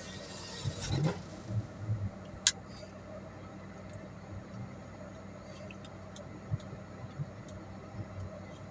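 Car running, heard from inside the cabin: a steady low hum with scattered low knocks and one sharp click about two and a half seconds in.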